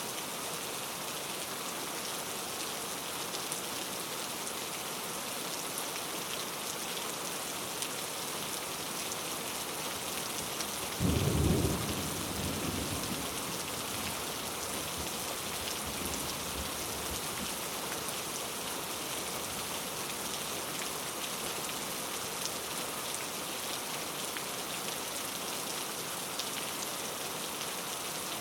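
Steady rain falling, with a single sharp clap of thunder about a third of the way in that rumbles away over a couple of seconds.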